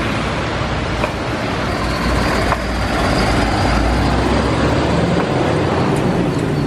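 Steady road traffic noise: an even, continuous rush with a heavy low rumble underneath.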